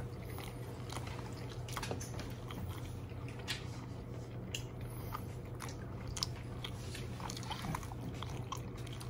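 A person chewing a mouthful of cheese-wrapped frankfurter, with scattered small wet clicks from the mouth over a steady low hum.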